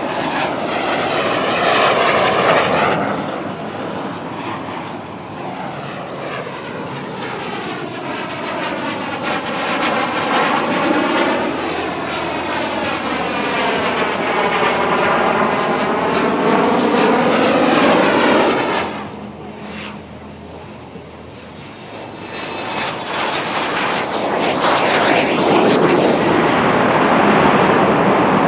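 Alpha Jet jet engines passing by, their noise swelling and fading with a sweeping, shifting tone. The noise drops away sharply about two-thirds of the way through, then builds again.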